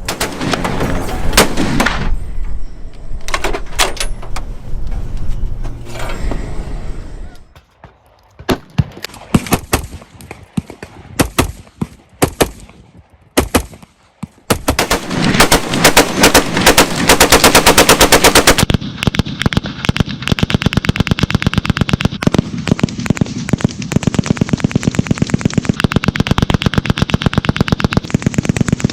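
Rapid gunfire, scattered shots at first, then long runs of quick, evenly spaced shots through the second half.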